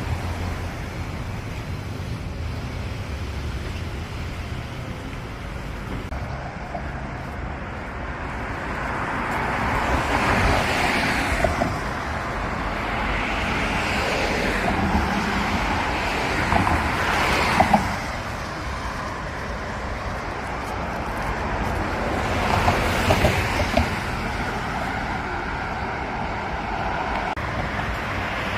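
Road traffic running steadily, with several vehicles passing by, each swelling and then fading.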